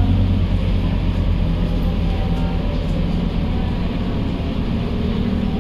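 Scania K230UB bus's five-cylinder diesel engine running with a steady low drone.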